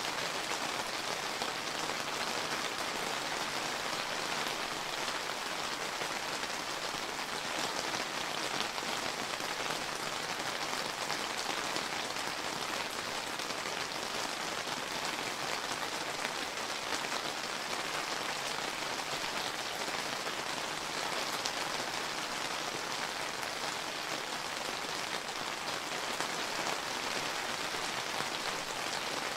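Steady summer rain falling and pattering on surfaces, an even hiss of countless drops with no lulls or thunder.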